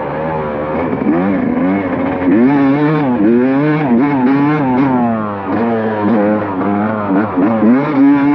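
Dirt bike engine revving up and down under riding, its pitch rising and falling repeatedly as the throttle is opened and closed.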